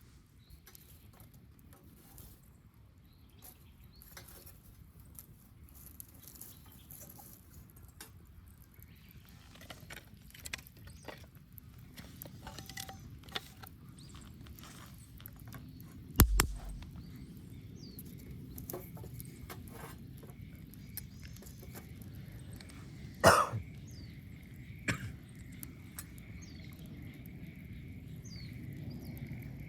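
Wood bonfire crackling: scattered small snaps over a low rumble of flame that grows louder, with two loud pops about halfway and three-quarters through and a smaller one soon after. A faint steady high whine runs through the second half.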